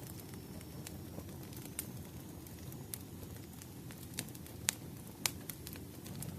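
Firewood burning in a blaze: a steady low rumble with sharp, irregular crackles and pops, two louder snaps a little past the middle.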